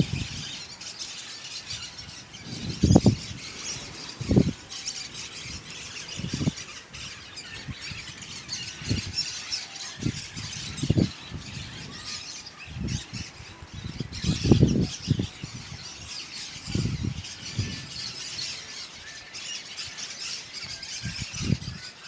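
A flock of parakeets chattering with continuous high-pitched calls. Short low rumbles on the microphone every second or two are louder than the birds.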